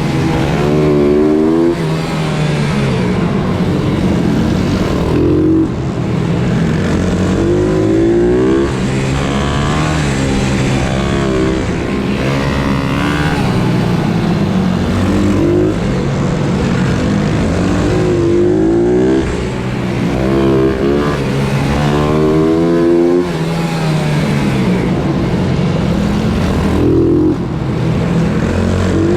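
Pit bike engine revving hard, its pitch climbing and dropping again and again as it accelerates and backs off.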